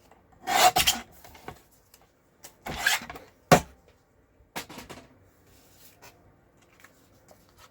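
Cardstock being cut on a paper trimmer: two short scraping slides of the blade about two seconds apart, then a sharp click, with lighter paper-handling sounds after.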